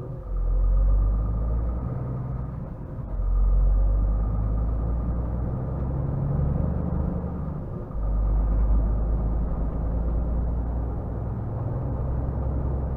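Scania R450 truck's six-cylinder diesel engine running while driving, a deep rumble that swells up three times as it pulls.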